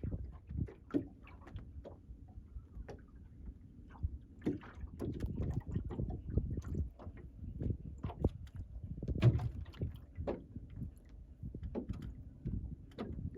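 Water lapping and splashing against the hull of a small wooden sail-and-oar dinghy, a CLC Skerry, over a low rumble. Irregular small knocks come from the boat, the loudest about nine seconds in.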